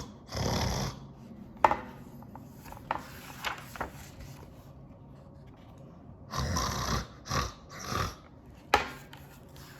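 Paper rustling and rubbing as a picture book is handled and its pages are moved, in a few short bursts with two sharp clicks.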